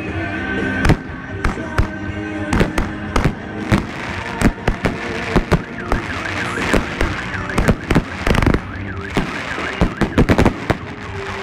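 45 mm multi-shot firework battery firing: a rapid, uneven series of sharp bangs as its shells burst, several a second at times, coming thickest in clusters near the middle and toward the end.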